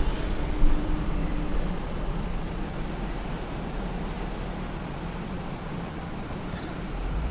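Wind and road noise in a moving car with a window down: louder wind buffeting on the microphone in the first second or so, then a steady rush.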